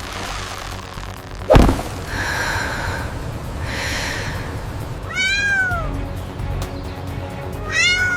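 Two short high calls, each rising then falling in pitch, over steady background music, with one sharp thump about one and a half seconds in.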